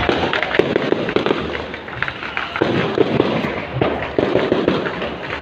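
Fireworks bursting continuously: many rapid pops and crackles, one after another, over a constant rumble.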